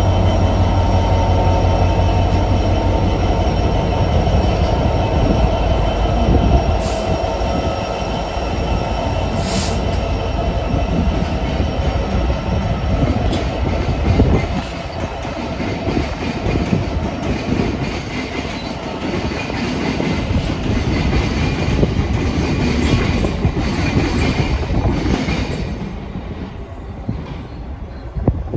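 A train moving through the station: a heavy low rumble that eases off about halfway through, with steady high-pitched tones over it, fading near the end.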